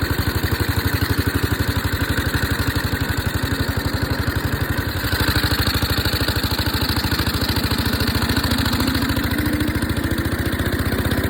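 Small single-cylinder minibike engine (a stock Husky engine fed by a PZ19 carburetor) running with an even firing beat. About five seconds in it is given more throttle and picks up, the engine note rising toward the end.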